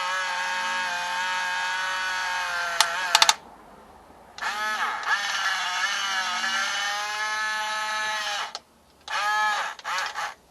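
Electric gear motor of a 1/18 scale Huina RC bulldozer whining as the blade is run up and down, in two long runs and a couple of short bursts near the end. The whine wavers and dips in pitch as the motor works, and a few sharp clicks come just before the first run stops.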